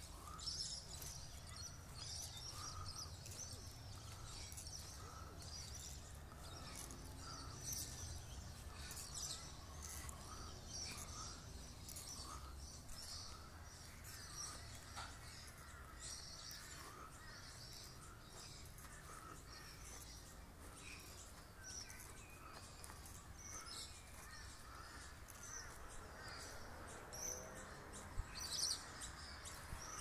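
Many wild birds calling and chirping together, short calls repeating throughout over a steady low rumble.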